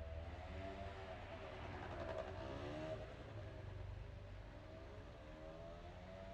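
Street traffic: a passing vehicle's engine rising and falling in pitch over a low rumble.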